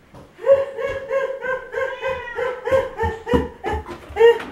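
Dog giving a run of short, high-pitched whining yelps, about three a second.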